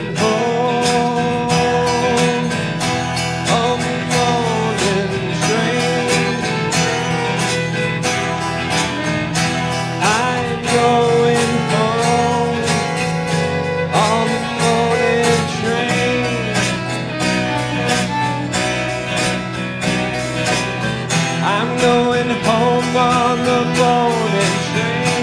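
Acoustic string band music: a steadily strummed acoustic guitar under a lead melody that slides and bends between notes.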